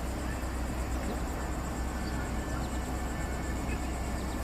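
Steady outdoor background noise with a low rumble, and a faint, high, steady insect buzz above it.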